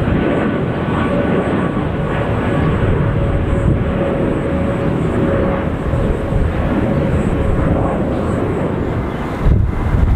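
Jet airliner engines at takeoff power: a loud, steady rush with a faint whine over it. A sudden burst of low rumble comes near the end.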